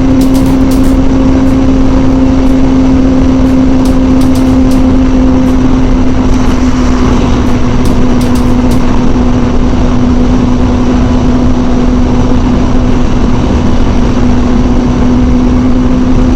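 2006 Kawasaki ZZR600's inline-four engine running at a steady cruising pitch, under a loud even rush of wind noise.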